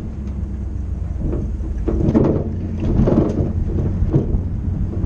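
A car's engine and exhaust rumbling, with uneven louder surges through the middle.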